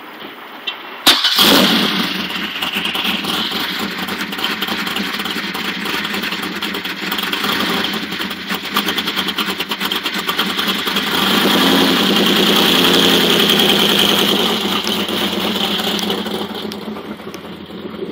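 Supercharged engine of a blown Oldsmobile Cutlass starting up with a sudden loud catch about a second in, then running with a choppy, pulsing idle that grows louder in the middle and fades near the end.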